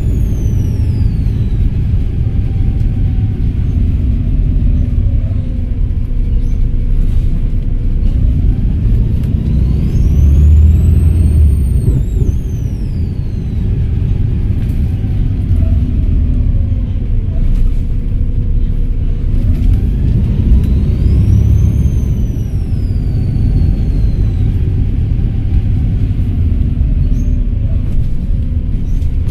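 Volvo B7RLE bus's diesel engine running under way with a low rumble, its turbocharger whistling loudly. The high whistle rises and falls twice as the bus pulls away and eases off, about a third of the way in and again about two thirds in.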